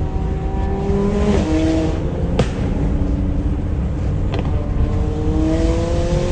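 Modified McLaren 570S's twin-turbo V8 with a loud aftermarket exhaust accelerating, heard from a following car. Its pitch rises, drops at a gear change about a second and a half in, then climbs again. Two sharp exhaust cracks come at about 2.4 s and 4.4 s, over a steady low road rumble.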